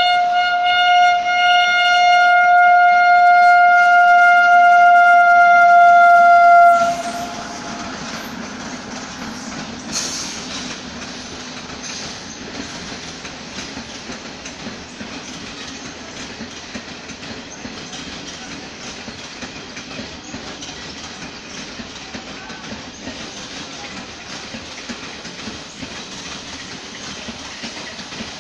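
Indian Railways Jan Shatabdi express train: the locomotive horn sounds one long, loud, steady blast that cuts off about seven seconds in. The steady rumble and clatter of the coaches' wheels on the rails follows.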